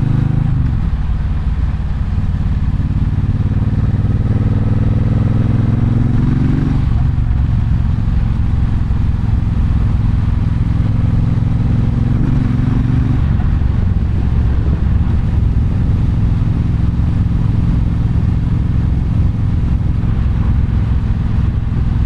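Triumph Bonneville Bobber's 1200 cc parallel-twin engine on the move. It falls off at the start, then pulls up through the revs twice, each pull ending in a sudden drop (about 7 s and 13 s in) as the rider shifts or rolls off. After that it runs more steadily.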